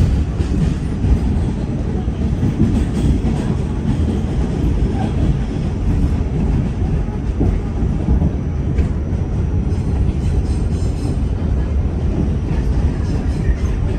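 Train running, a steady low rumble with rail noise.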